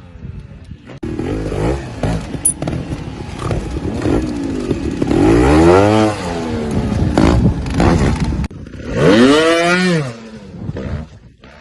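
Motocross dirt bike engines revving hard, the pitch rising and then falling twice: once around the middle and again near the end.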